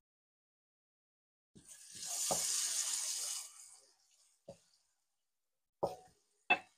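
Shredded chicken and tomato sizzling in a nonstick frying pan for about two seconds as it is stirred, then a few light knocks of a wooden spoon against the pan.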